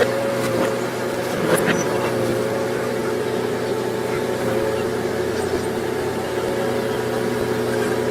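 A heavy machine's diesel engine running steadily at a constant pitch, with a faint knock about one and a half seconds in.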